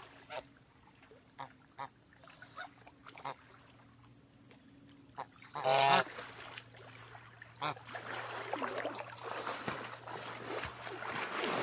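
A goose gives one loud honk about six seconds in, with a few fainter short calls around it. A steady high-pitched tone runs underneath.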